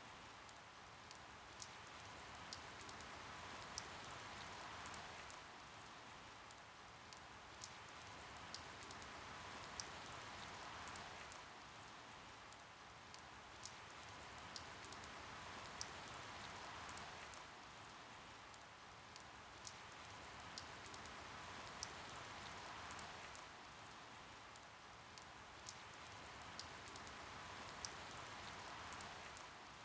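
Soft steady rain, with many individual drops ticking sharply through the patter; the rain swells and eases gently every several seconds.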